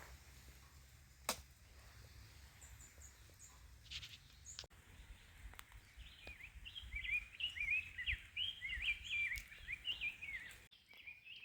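A songbird singing a quick, jumbled run of short chirping notes from about six seconds in, after a few faint high chirps earlier. There is a single sharp click about a second in.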